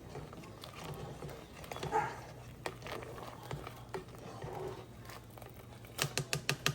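Faint kitchen handling sounds as food containers and packages are taken out and set down: scattered light taps and rustles, with a quick run of clicks near the end, over a low steady hum.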